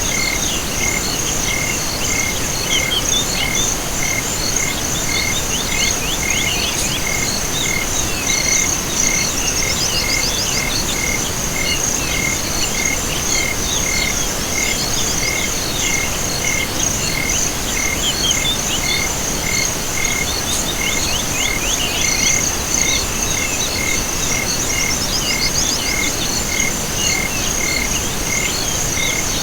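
Night chorus of crickets and frogs: a continuous high insect trill, with a steady pulsed chirp repeating about twice a second, and recurring bouts of rapid calls over a steady background hiss.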